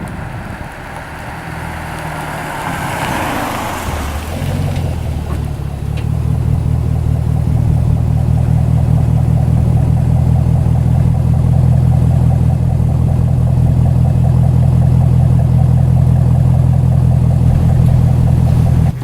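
Chevrolet Camaro SS V8 running through an MRT stainless-steel cat-back exhaust with H-pipe: a brief rising rush a few seconds in, then a steady, deep exhaust note that holds one pitch.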